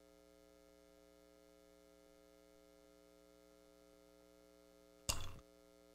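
Near silence: a faint steady electrical hum of several level tones, with one short sharp sound about five seconds in.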